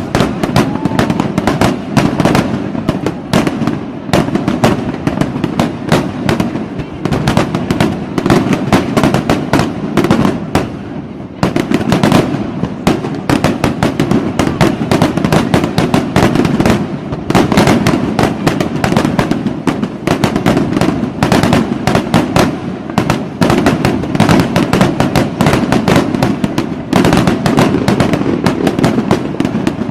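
Fireworks going off in a dense, continuous barrage of rapid, overlapping bangs and crackles, easing briefly about eleven seconds in.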